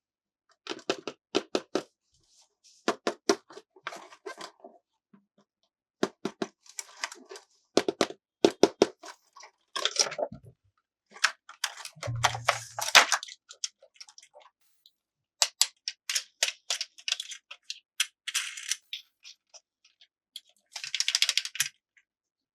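Plastic toy pieces and packaging being handled: bursts of small clicks and rattles, broken by a few short rustling stretches and one dull thump about twelve seconds in.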